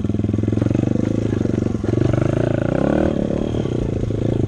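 Dirt bike engine running as the bike is ridden, revving up about two seconds in and easing off near three seconds in.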